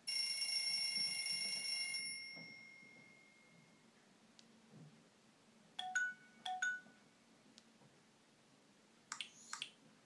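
Nokia 3710 fold previewing its built-in alert tones through its loudspeaker. First a clock alert plays, a bright ringing chime of several steady tones that fades away by about three seconds. About six seconds in comes a short two-note message tone, and near the end another short message tone.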